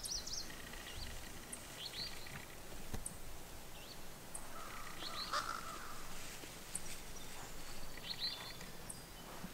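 Small birds chirping in short, repeated high calls, with a lower, louder call a little past halfway, over a steady outdoor background hiss.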